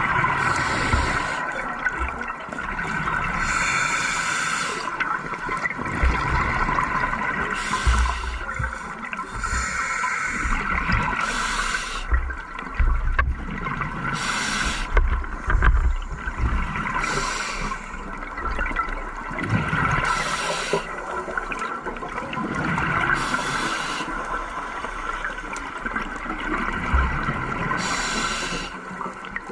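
Scuba diver's regulator breathing underwater: a hiss and gurgle of exhaled bubbles recurring every few seconds over a steady underwater hum.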